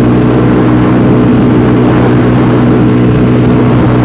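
DF250RTS / Venom X22R 250cc single-cylinder motorcycle engine running hard at a steady high speed, its pitch holding constant, with rushing air noise from riding at speed.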